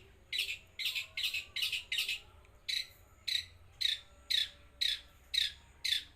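Long-tailed shrike (cendet) giving a series of about a dozen short, harsh, high calls, roughly two a second, with a brief pause partway through.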